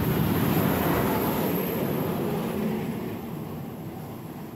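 Electric-hauled regional train of red DB coaches rolling past close by, a steady rush of wheel and running noise that fades away over the last couple of seconds as the end of the train passes and goes.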